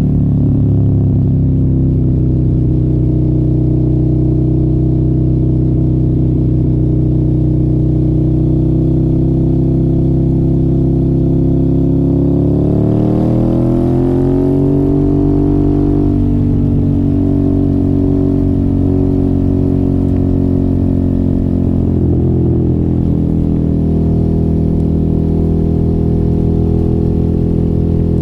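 Suzuki motorcycle engine with an aftermarket silencer, running steadily under way. About 13 seconds in the pitch climbs over a couple of seconds as the revs rise, then holds, dropping a little near 22 seconds.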